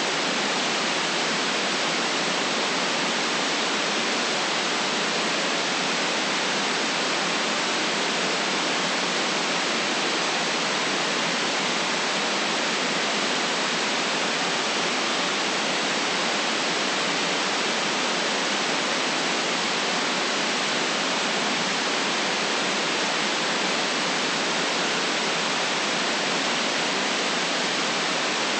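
Steady white noise: an even, unchanging hiss with no other sounds in it.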